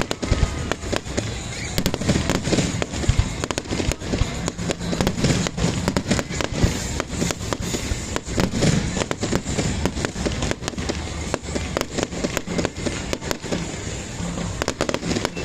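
Fireworks going off in rapid succession: a dense, continuous run of sharp bangs and crackles with no break.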